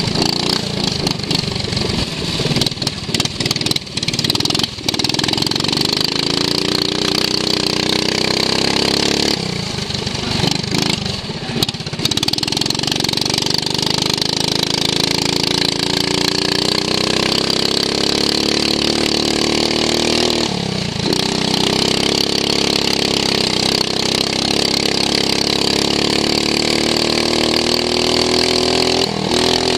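Racing lawn mower's engine heard from onboard, revving up repeatedly as it pulls out of corners, with the revs dropping briefly about a third of the way in and again about two-thirds of the way in. Sharp knocks and rattles in the first few seconds.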